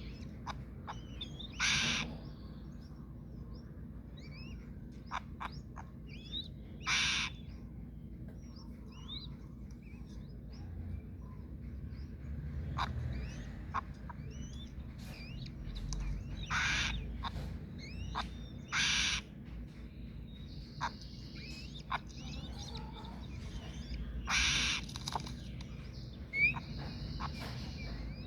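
Birds at an eagle's nest: harsh, hissing calls about half a second long, repeated every few seconds, with many short high chirps between them.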